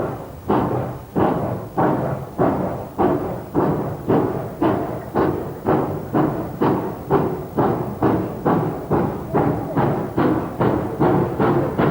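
Great Western Hall-class 4-6-0 steam locomotive's exhaust beats, quickening steadily from under two a second to about three a second: the engine accelerating its train under steam.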